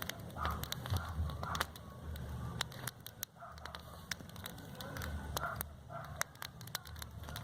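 Bonfire crackling, with many sharp irregular pops, and a few brief faint sounds in the background.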